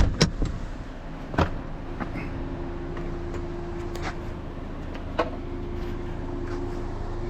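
Vehicle engine idling steadily, with a few sharp clicks and knocks of a car door being opened and shut, the loudest at the start and about a second and a half in.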